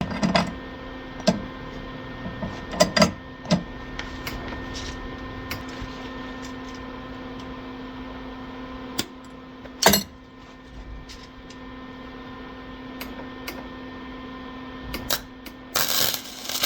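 Welding a small steel chainsaw exhaust: a steady electrical hum from the welder, broken by a few sharp clicks and a short hissing burst near the end.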